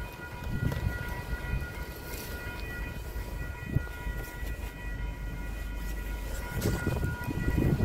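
Low, steady rumble of a passing commuter train heard from inside a car waiting at the grade crossing, growing louder near the end.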